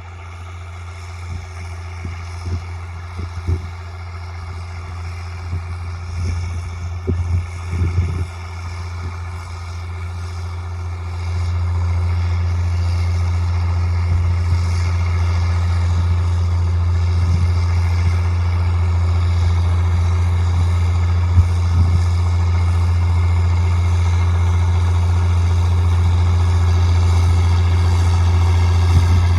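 Straight-piped John Deere 4630's turbocharged six-cylinder diesel running steadily with a deep, even exhaust note, getting clearly louder about a third of the way through and then holding. A few short knocks and rattles come in the first several seconds.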